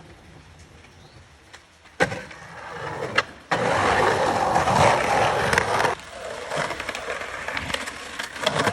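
Skateboard on hard pavement: a sharp clack about two seconds in, then wheels rolling. A louder, rough stretch begins abruptly about three and a half seconds in and cuts off suddenly some two seconds later, then quieter rolling continues.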